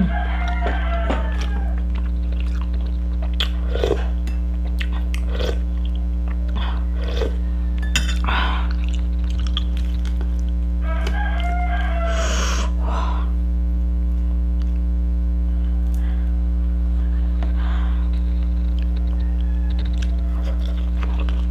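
Soft chewing and mouth clicks from someone eating fried fish and rice by hand, over a loud steady electrical hum. A longer pitched call-like sound rises above it about eleven seconds in.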